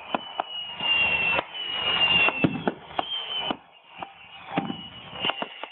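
Fireworks going off: several whistles, each about a second long and falling slightly in pitch, with sharp bangs and cracks between them.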